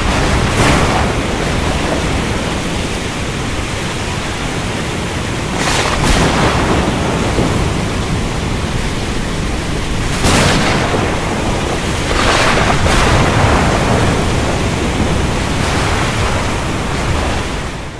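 Thunderstorm with steady heavy rain, broken by several sharp cracks of thunder a few seconds apart. The sound fades out just before the end.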